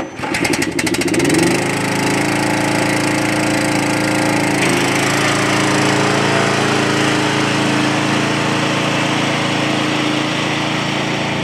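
Vehicle engine cranking with quick clicks, catching and rising in pitch within about a second and a half, then running steadily.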